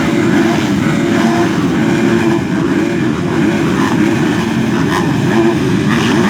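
Several MX2 motocross bikes racing together, their engines revving up and down over one another in a loud, continuous din.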